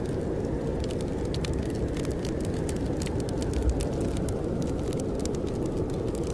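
Wood fire crackling with many scattered small snaps over a steady low roar of blizzard wind.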